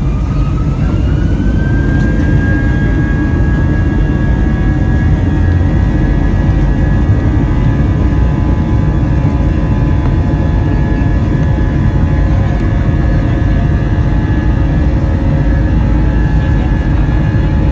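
Airbus A320 jet engines heard from inside the cabin, a whine rising for the first couple of seconds and then holding steady over a loud, heavy rumble: the engines spooling up to high thrust for takeoff.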